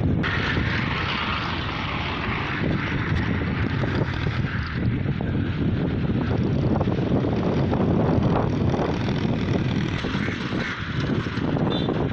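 Mini tractor's small engine running steadily.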